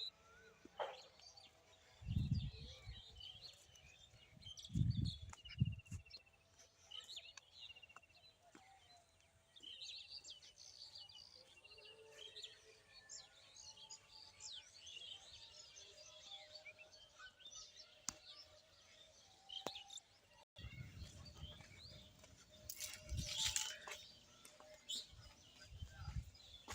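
Many small birds chirping and twittering in quick, scattered calls, with a few low rumbling thuds on the microphone.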